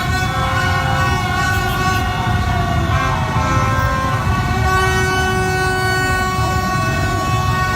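Continuous din of many horns and trumpets tooting at once, several held tones overlapping with pitches gliding up and down, over a dense low rumble.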